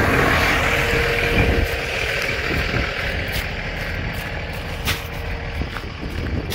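Semi truck running with a low rumble, and a loud hiss of air that fades away over the first couple of seconds.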